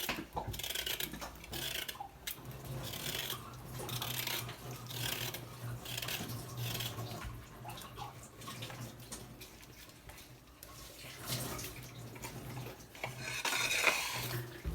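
Kitchen food-preparation sounds: repeated irregular rubbing and scraping strokes of vegetables being handled, over a steady low hum.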